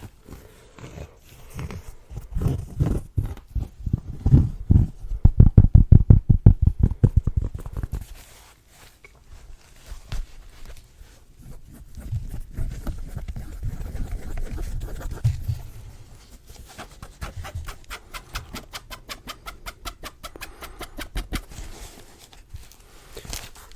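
Fingertip tapping and hand sounds close to a sensitive microphone: quick runs of taps, several a second, heavy and thudding about five seconds in, then lighter and faster later, with softer rubbing between the runs.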